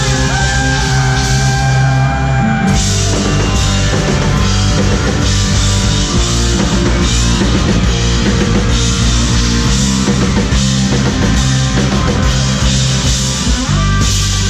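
Loud rock music: an electric guitar lead with long, bending held notes over a full drum kit, the cymbals coming in strongly about three seconds in.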